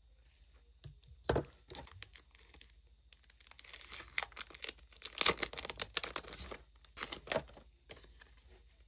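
Packaging being handled and torn open: a few sharp crackles, then several seconds of dense crinkling and tearing, with another short burst near the end.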